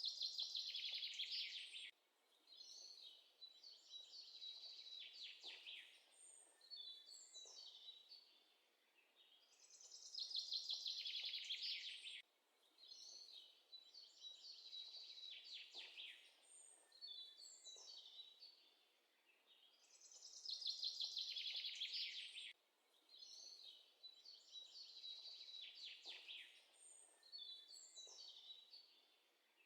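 Quiet birdsong background track: high chirps and trills in a phrase that repeats about every ten seconds as a loop.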